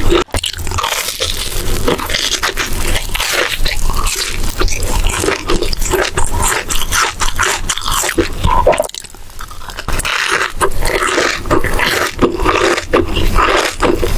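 Close-miked eating: crunchy bites and chewing, with crackling and wet mouth sounds close to the microphone, easing off briefly about two-thirds of the way through.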